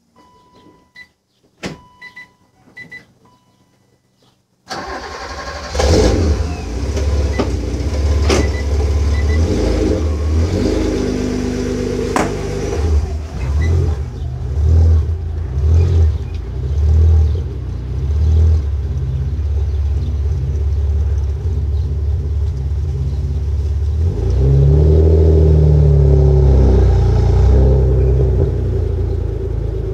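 A 1986 BMW 325e's 2.7-litre M20B27 straight-six, heard through a cat-delete exhaust, starts about five seconds in after a few short beeps and clicks. It idles unevenly at first, then steadily, and near the end it is revved once, rising and falling.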